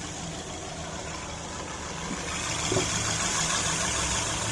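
2012 Acura MDX's 3.7-litre V6 idling steadily with new spark plugs in cylinders 4 and 5, getting a little louder about halfway through. It sounds good to the owner, though he says it is still misfiring.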